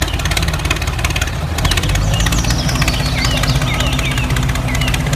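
Small engine running steadily with a rapid, even chugging beat. Birds chirp briefly over it in the middle.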